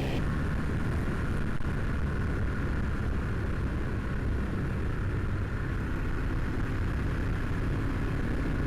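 Motorcycle engine running steadily while riding along the road, with wind and road noise, as heard from a helmet-mounted camera.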